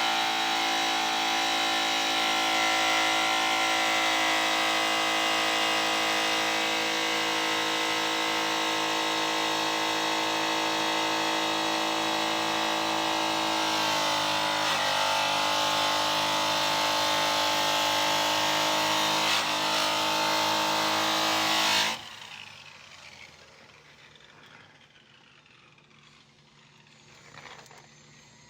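Electric rotary polisher running steadily at speed while buffing an aluminum wheel, with a steady whine of several tones, then cutting off suddenly about three quarters of the way through, leaving only faint sound.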